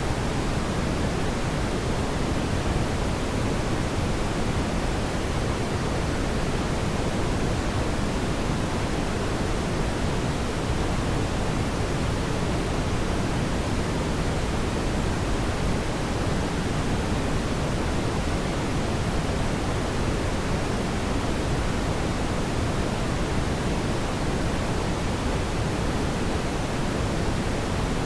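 Steady rushing noise from a fireplace ambience track, heaviest in the low range, with no distinct crackles or pops.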